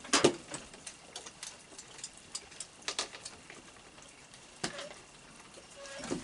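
Light rain patter with scattered, irregular sharp taps and clicks, the loudest near the start, about three seconds in and just before five seconds.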